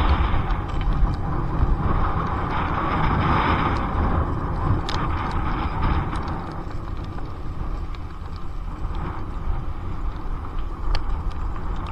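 Riding noise of an electric mountain bike on a road: a steady rushing of wind and tyres, heaviest in the low end, that eases a little past halfway, with a few light clicks and rattles.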